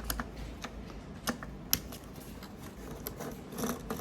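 Irregular light clicks and ticks of a T10 Torx screwdriver and small screws being worked loose on a fusion splicer, with a short busier patch of clicks near the end.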